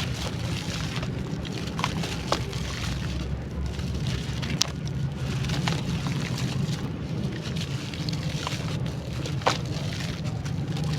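Water-soaked crunchy charcoal crumbling and crackling: a continuous fizzy crackle with a few sharper cracks at irregular moments, over a steady low hum.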